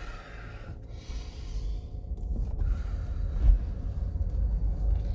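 Low road and tyre rumble inside the cabin of an electric car as it pulls away and picks up speed, with no engine note, only a faint steady hum. A breath near the start and a low bump about three and a half seconds in.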